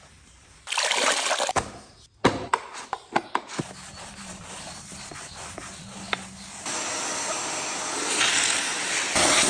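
A washing vacuum cleaner at work with a watery rushing sound. There is a short loud burst about a second in, then a run of clicks and knocks, then a steady hiss that gets louder near the end.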